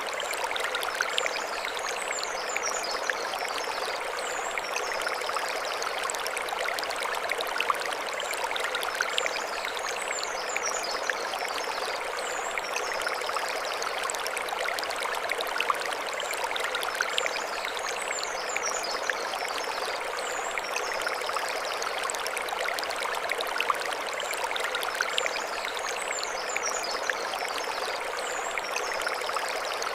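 Mountain stream flowing steadily over stones, with a short high chirping phrase repeating about every eight seconds.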